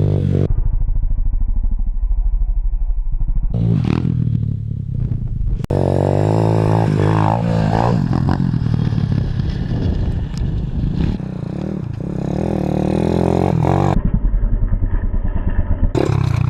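125cc pit bike engine running hard and revving, its pitch rising and falling as the throttle is worked, with the sound changing suddenly several times where the footage is cut.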